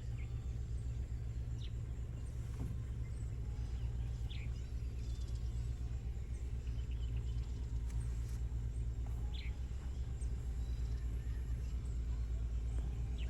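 Birds giving short, high chirps now and then, a few scattered calls over a steady low rumble.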